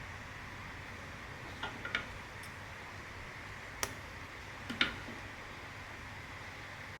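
A few light, sharp clicks and ticks from hand cross-stitching, over a steady faint hiss. There are two close together about two seconds in, and a louder one near the end.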